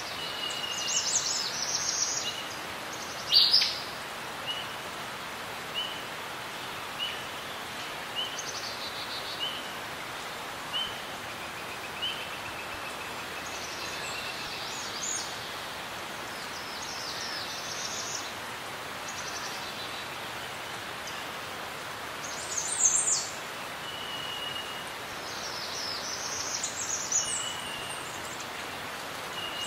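Several birds singing over a steady background hiss: one bird repeats a short whistled note about once a second, while others give bursts of high chirping, loudest about three seconds in and again around twenty-three seconds.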